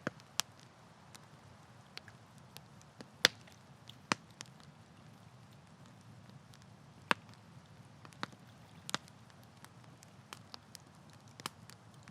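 Wood campfire crackling: irregular sharp pops and snaps, the loudest about three seconds in, over a low steady hiss of burning.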